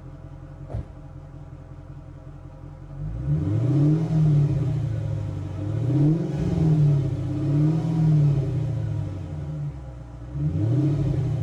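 2005 Mercedes-Benz SL500's V8 idling through a newly fitted Flowmaster muffler, then revved four times, each rev rising and falling back to idle. The exhaust note sounds tight and clean.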